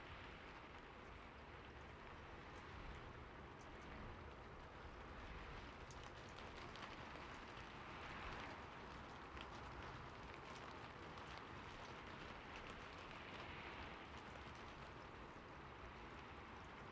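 Faint, steady rain on a roof: an even hiss with scattered drop ticks.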